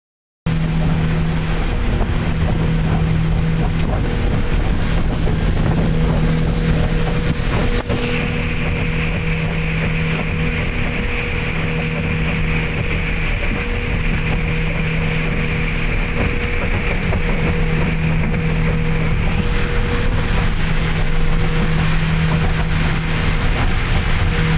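Speedboat underway: its engine drones steadily under a loud rush of wind and water.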